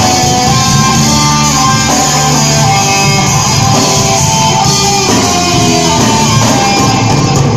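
Live band playing a guitar-led instrumental passage, with bass underneath.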